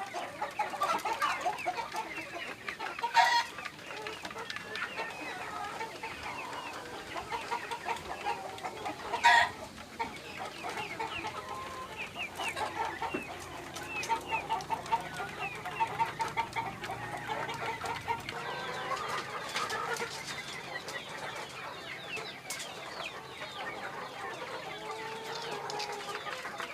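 A flock of Ayam Cemani chickens clucking and calling continuously, with two louder short calls about 3 and 9 seconds in.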